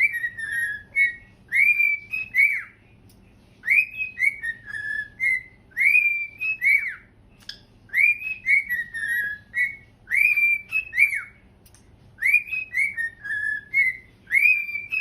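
A pet parrot whistling the same short tune over and over, about every two seconds: two or three high arching notes followed by a few lower notes.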